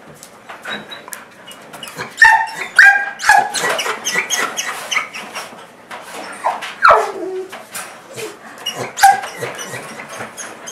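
Portuguese Water Dog making high squeaky-toy-like noises, a mix of bark, whine and panting. A run of short squeals comes about two seconds in, a longer squeal falling in pitch near the middle, and another squeak near the end, with quick panting throughout. The dog is excited.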